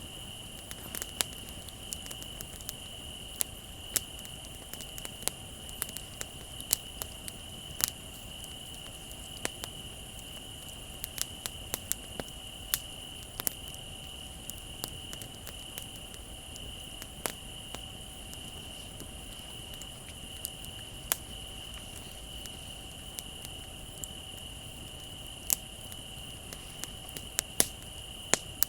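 Wood bonfire crackling, with irregular sharp pops and snaps, over a steady high-pitched trill of crickets.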